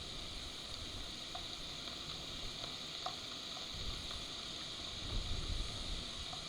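Steady hiss of heavy rain falling on the forest and the nest, with a few faint drip-like ticks. A low rumble swells in about four seconds in and fades by the end.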